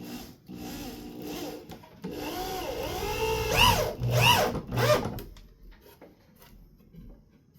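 Power drill driving a long screw into a wall. The motor runs steadily, then louder, then gives three short spurts that rise and fall in pitch as the screw seats, and stops about five seconds in.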